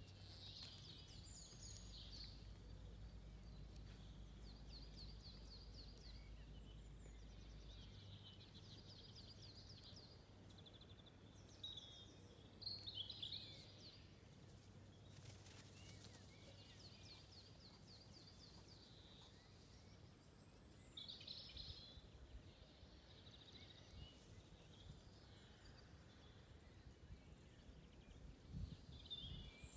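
Faint birdsong from several small birds: repeated short trills and chirps throughout, with a low steady rumble that stops about eight seconds in.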